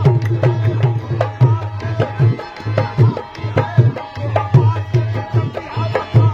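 Qawwali instrumental passage: a dholak hand drum plays a fast, driving rhythm of low booming bass strokes and sharp treble slaps, with held melodic notes beneath.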